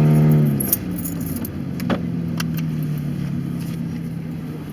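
Unmuffled car exhaust droning loudly, then dropping back to a quieter steady idle about a second in as the car slows. A few sharp clicks and a jangle, like keys or a seatbelt buckle, come over the idle.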